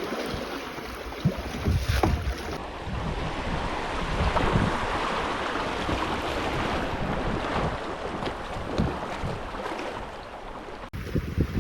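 Moving river water with wind buffeting the microphone in gusty low rumbles; the sound changes abruptly twice, about two and a half seconds in and near the end.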